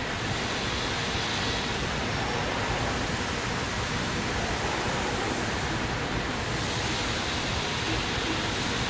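Automatic CNC glass loading and cutting line running, an even, steady noise without distinct strokes or tones.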